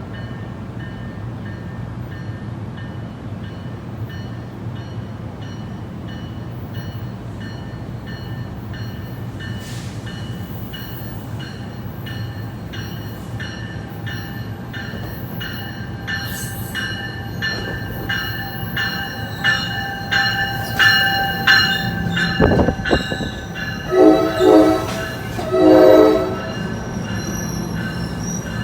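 Train rumbling past or standing with its bell ringing about twice a second, then two short horn blasts near the end.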